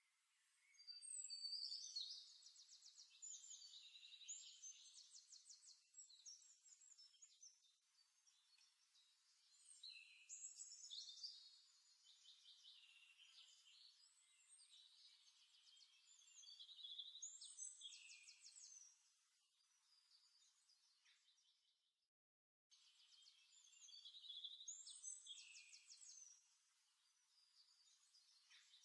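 Faint birdsong: a songbird singing high, trilled phrases that come back every five to seven seconds. The sound cuts out completely for about half a second around two-thirds of the way through.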